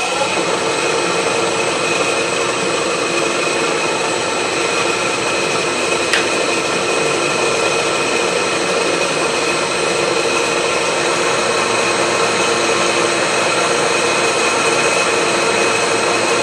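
A machine-tool motor spins up and then runs steadily, with a constant whine.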